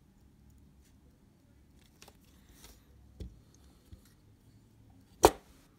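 Small handling sounds of repair work on a camera: faint rustles and light taps, then one sharp, loud click about five seconds in.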